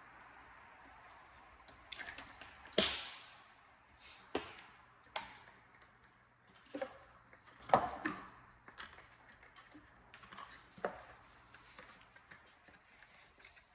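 Irregular sharp clicks and knocks of hard objects, about a dozen, the loudest about three seconds in and again near the middle.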